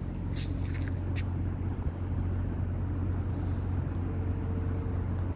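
Steady low rumble of a vehicle running, heard as a constant hum, with a few sharp clicks about half a second to a second in.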